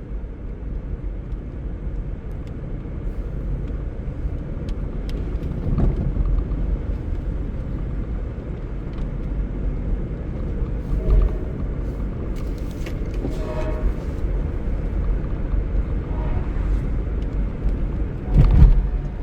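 Car driving along, a steady low rumble of road and engine noise with scattered small clicks and a louder thump near the end.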